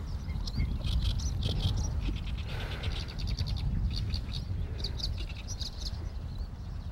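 Small birds chirping, with quick runs of rapid repeated high notes, over a steady low rumble.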